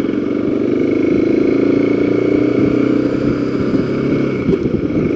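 Motorcycle engine running under way, its note climbing over the first couple of seconds as the bike accelerates, then holding steady and easing slightly, with road and wind noise underneath.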